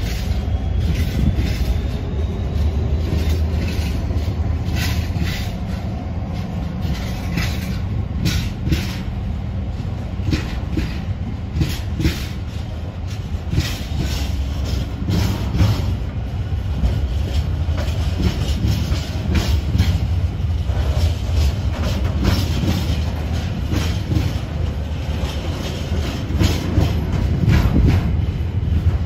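A train running past close by: a steady low rumble with its wheels clattering over rail joints and points in a long run of irregular clicks.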